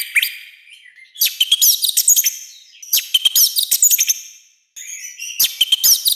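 Orange-headed thrush singing in a loud, harsh voice: quick runs of varied high-pitched notes in three phrases, with short pauses between them.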